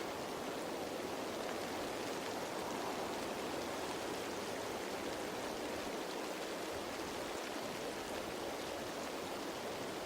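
Steady rain falling on leaves: a dense, even hiss of drops with faint individual drop ticks.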